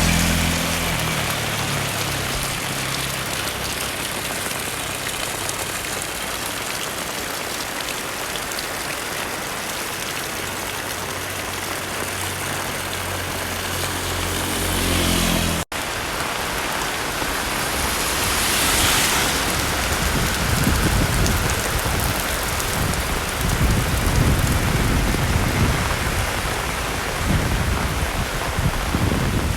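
Heavy rain falling steadily and pattering on surfaces. A low engine hum is heard at the start and swells again just before a brief break about halfway. After the break, low rumbling comes and goes under the rain.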